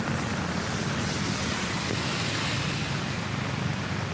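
Steady rain falling, an even hiss of water with a low rumble beneath it.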